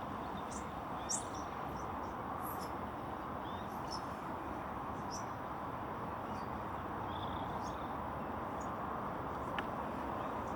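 Scattered short bird chirps over a steady background rush.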